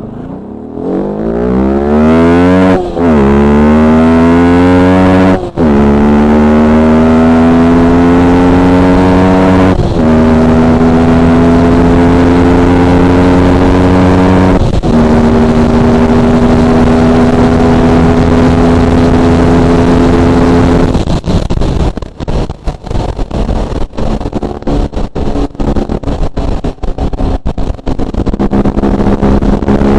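Yamaha R15 V3's 155 cc single-cylinder engine at full throttle, accelerating through the gears: its pitch climbs and drops sharply at each of four upshifts, the climbs growing slower in the higher gears. It then holds a high, steady note near top speed, and in the last third the sound turns choppy and uneven.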